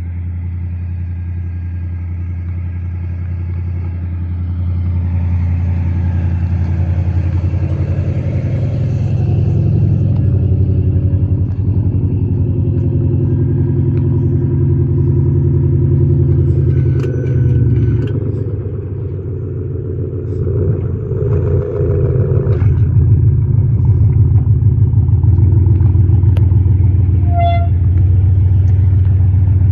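2017 Audi S8 plus twin-turbo 4.0 V8 running at a steady idle through a straight-through Fox valved stainless dual exhaust, with the resonators and centre pipe deleted, giving a deep, loud drone. The drone swells a few seconds in, eases briefly past the middle and then grows louder again.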